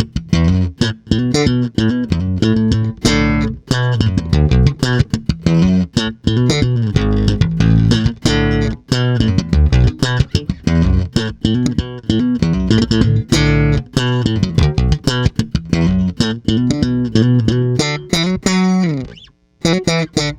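Fender Player II Mustang Bass, a short-scale electric bass, played in a busy line of quickly plucked notes. Near the end a note slides down in pitch, the sound cuts out briefly, then the playing starts again.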